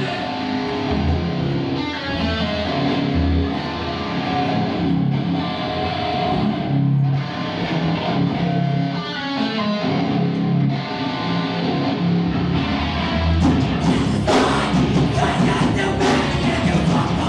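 Live rock band playing. Electric guitar chords ring out, then drums and cymbals crash in about thirteen seconds in and the full band plays on.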